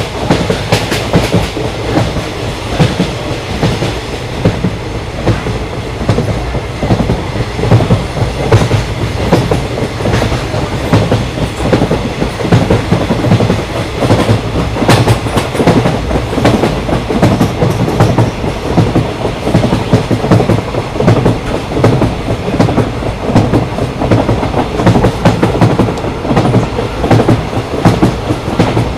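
Indian Railways express train running at speed: a steady rumble with the clickety-clack of wheels over rail joints, sounding in a rapid, irregular run of knocks.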